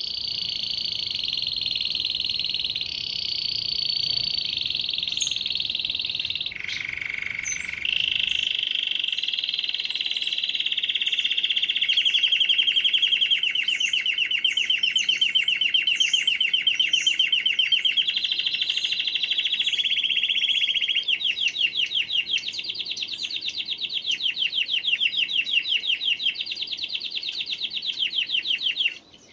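Canary singing a long continuous song of rapid rolling trills, switching to a new trill at a different pitch and speed every few seconds, and stopping abruptly near the end. Faint short chirps sound above it.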